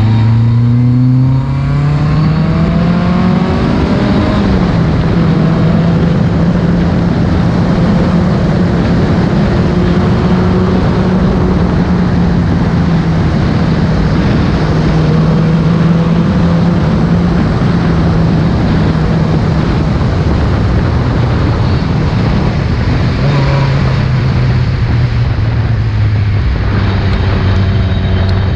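Ford Escort RS rally car's engine running hard at high revs, its pitch climbing over the first few seconds and then held fairly steady, dropping to a lower note about three quarters of the way through.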